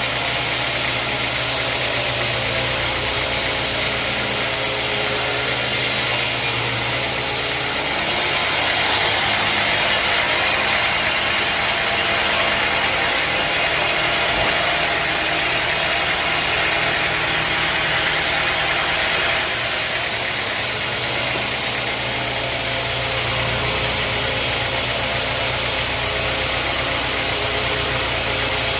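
Sawmill saw machinery running with a steady engine-like drone. From about eight seconds in, a stronger hiss joins for about eleven seconds, then the running sound settles back.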